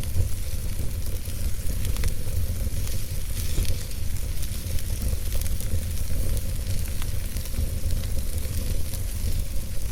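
Logs burning in a fireplace: a steady crackle with scattered sharp pops over a low, continuous rumble of the fire.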